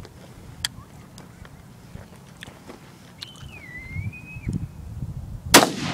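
A single shot from a .270 rifle near the end, a sharp crack followed by a long fading echo.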